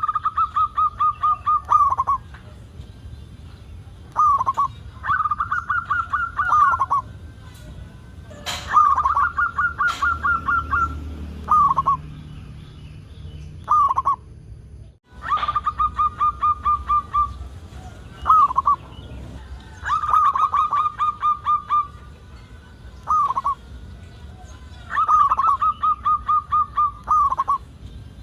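Zebra dove (perkutut) singing: about six long phrases of rapid staccato coos, each lasting about two seconds, with short single coos between them.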